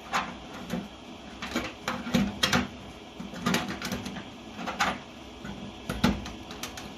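Irregular hard plastic clicks and knocks, about a dozen, as the drain pump filter and drain hose cap of a Samsung washing machine are handled and fitted back in place.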